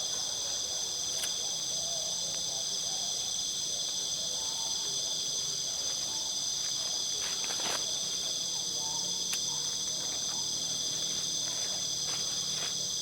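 Night insect chorus in tropical forest, several steady high-pitched trilling bands sounding together without a break. Faint lower calls waver underneath, and a brief crackle comes about seven and a half seconds in.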